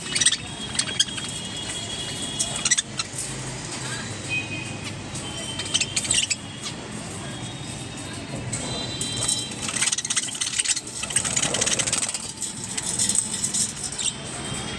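A flock of budgerigars chirping and chattering in short, high calls, over a steady low rumble.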